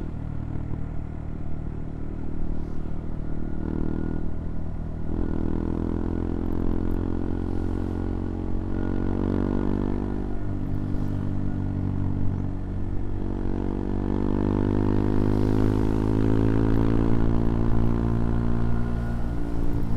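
CFMoto Papio XO-1's single-cylinder engine under way, the revs climbing and dropping several times as the gears change, with a long pull rising in pitch in the second half.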